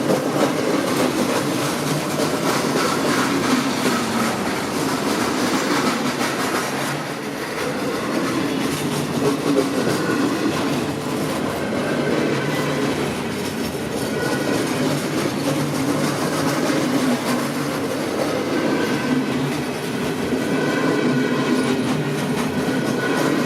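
Alaska Railroad train cars rolling past at a steady speed, the wheels clicking over the rail joints.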